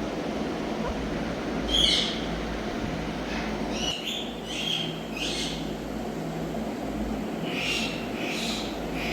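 Indian ringneck parakeet giving short, shrill calls: one about two seconds in, a quick run of several around four to five seconds, and two more near the end, over a steady low background hum.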